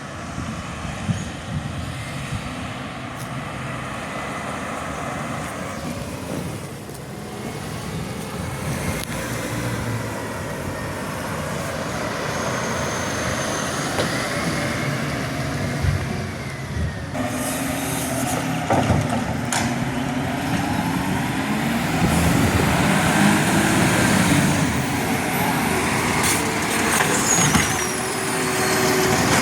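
Garbage truck engine running and revving, its pitch rising and falling, with several sharp clanks and knocks in the second half.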